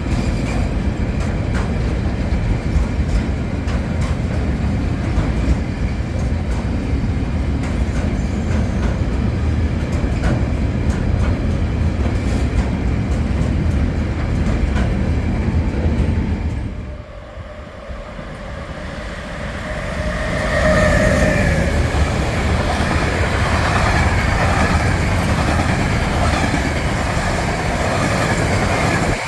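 Freight train passing through a station: the wagons rumble steadily, with the quick clicking of wheels over rail joints. About halfway through the sound drops away briefly, then the passage picks up again with a high wavering squeal over the rumble.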